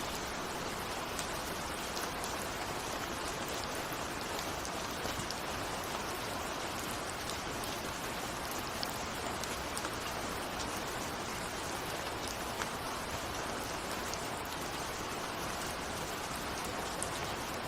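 Steady rain pattering on a window, an even hiss of rainfall with scattered individual drop ticks.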